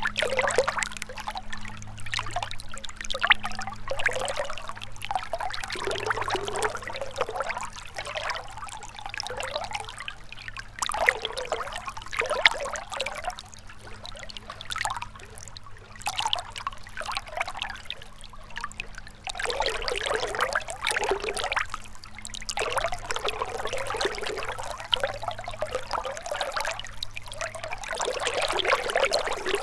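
Gentle river water trickling and burbling. It swells and fades in uneven surges every few seconds.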